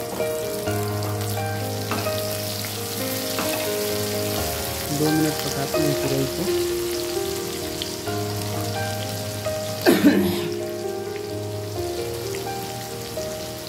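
Ridge gourd slices sizzling in ghee in a kadai, with a spatula stirring them, under background music with a melody and bass line. About ten seconds in there is one short, louder clatter.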